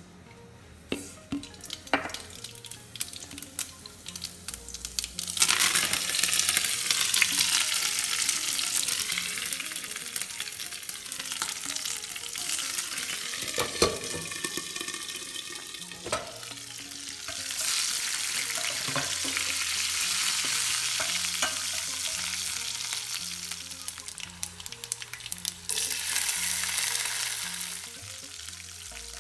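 Tempering (tadka) frying in hot oil in a stainless steel pan: mustard and cumin seeds crackle with scattered pops, then a loud sizzle starts about five seconds in from green and dried red chillies, curry leaves and garlic, swelling again later while being stirred.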